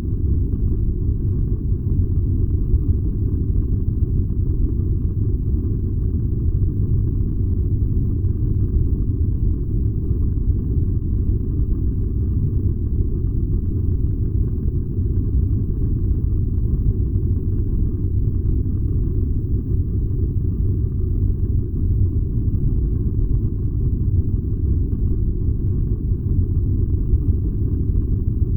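A furnace burning with a steady, unchanging low rumble.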